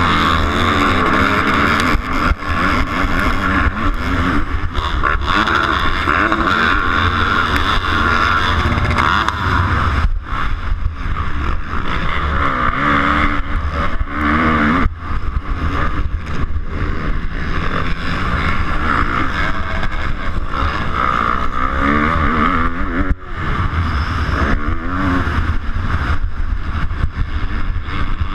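A 250cc motocross bike's engine ridden hard, revving up and down with the throttle through the race. There are brief drops in throttle about a third of the way in, around the middle, and again later on.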